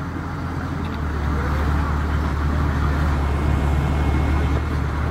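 Early-1950s Chevrolet's engine running with a steady low exhaust rumble as the car drives slowly, growing louder about a second in.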